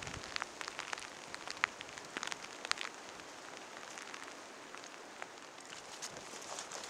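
Rain falling: a steady soft hiss with separate drops ticking sharply, most of the ticks in the first three seconds.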